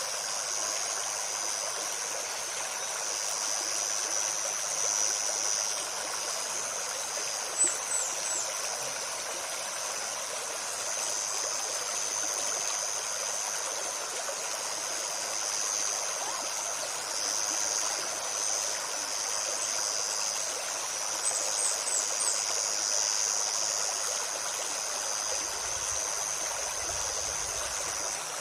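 Shallow forest stream babbling steadily, with a high wavering drone of insects above it. A few short, high bird chirps come about 8 seconds in and again three times near the 22-second mark.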